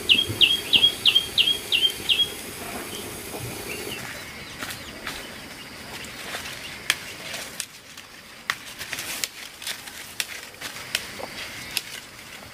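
A bird gives a quick run of about seven sharp, high chirps, roughly three a second, in the first two seconds. After that come scattered light clicks and knocks.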